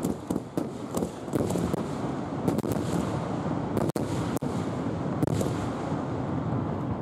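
Fireworks firing in a continuous barrage: rapid, overlapping bangs and crackle of shells launching and bursting, heard close to the launch site.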